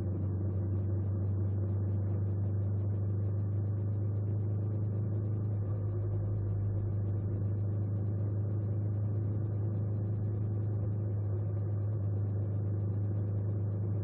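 An engine running steadily at constant speed: an even low hum with no revving or change in pitch.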